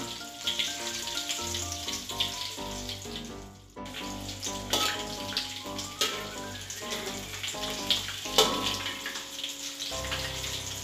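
Halved hard-boiled eggs, coated in beaten egg, sizzling as they fry in oil in a wok, with a few sharp clicks of a metal spatula against the pan as they are turned. Background music plays throughout.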